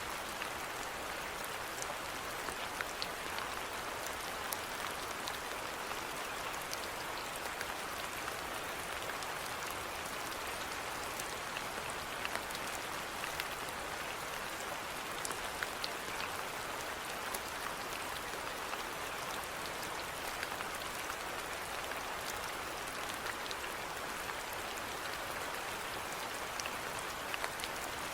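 Steady rainfall, an even hiss with individual drops ticking sharply here and there.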